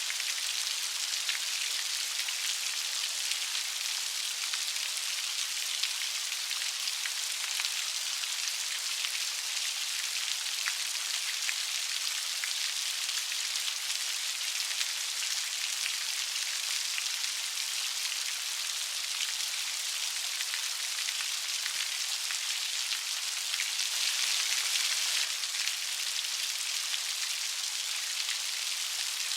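Steady light rain falling, an even hiss made of many fine drop patters, swelling slightly for a second or so about 24 seconds in.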